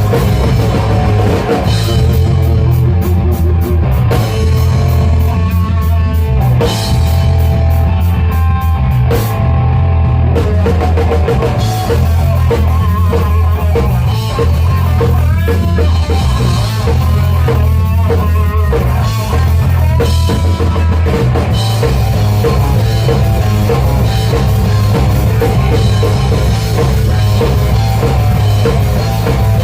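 Live rock band playing loudly, with drum kit, bass and electric guitar.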